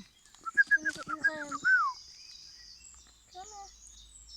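A person's voice in soft, high, sing-song tones over the first couple of seconds, then a steady high hiss of outdoor background, with one short pitched sound after about three seconds.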